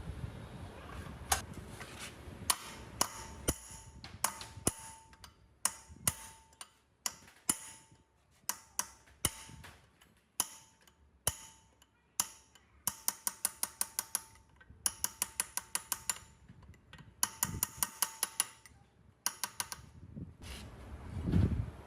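Hammer striking metal: single sharp blows with a metallic ring, then quick runs of light taps about five or six a second, twice in the second half.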